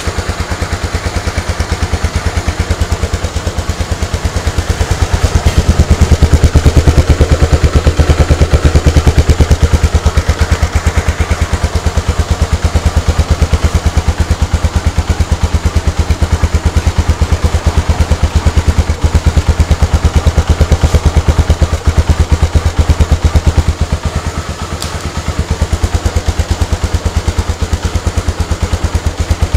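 Honda Tornado's single-cylinder four-stroke engine idling with a steady, rapid pulsing beat, a little louder from about five seconds in and dipping briefly near the end.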